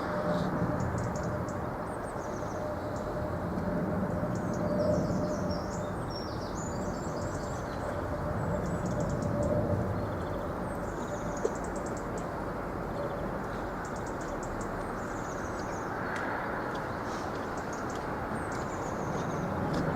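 Small birds chirping repeatedly over a steady background rumble, with a faint steady hum that fades out about two-thirds of the way through.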